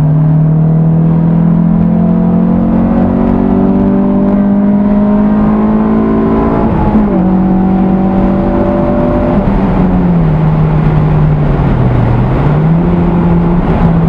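Honda S2000's four-cylinder engine through a Milltek dual exhaust, heard inside the cabin with the soft top up, pulling up to highway speed. Its note rises steadily for several seconds, drops about seven seconds in, then holds, dipping and rising again gently near the end.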